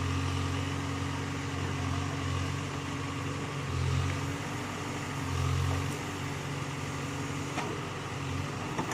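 Case 851 backhoe loader's diesel engine running steadily, with its low hum swelling twice, about four and five and a half seconds in, as it comes under load.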